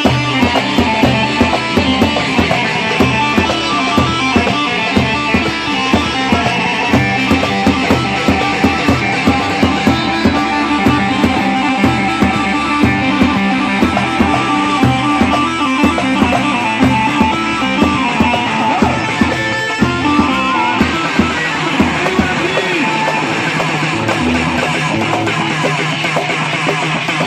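Live band music: an instrumental passage with a plucked or strummed melody line over a steady, even percussion beat.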